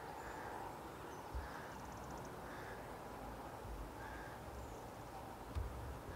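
Faint outdoor ambience: distant birds calling a few times over a steady background hiss, with a couple of low thumps on the microphone.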